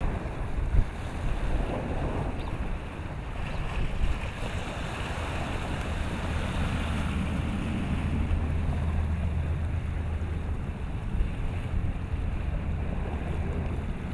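Wind buffeting the microphone in gusts, a low rumble over the wash of choppy open water.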